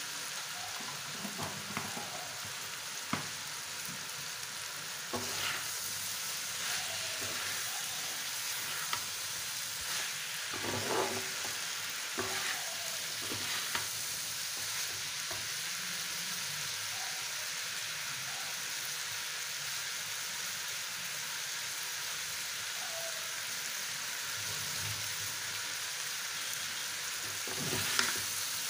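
Spiced potato-and-chicken filling sizzling in hot oil in a frying pan, stirred with a metal spatula that scrapes and knocks against the pan now and then.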